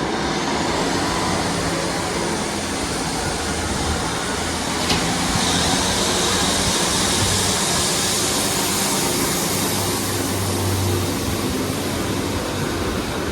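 Pair of Class 150/2 diesel multiple units pulling away, their underfloor diesel engines running hard under power with a loud, steady drone and rising wheel and rail noise; a single sharp click about five seconds in.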